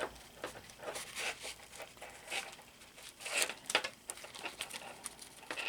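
Paper rustling and light handling clicks as the pages, pockets and tags of a handmade paper journal are moved, with a louder rustle about three and a half seconds in.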